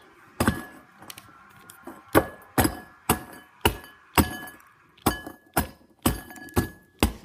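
Frosted Mini-Wheats being pounded in a bowl, about a dozen sharp strikes at roughly two a second, each one clinking against the bowl.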